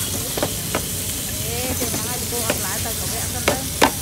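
Food sizzling on a street-food stall with a steady hiss, broken by several sharp clicks, the loudest near the end.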